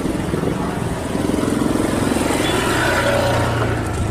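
Heavy diesel vehicle engine running steadily, growing a little louder about a second in.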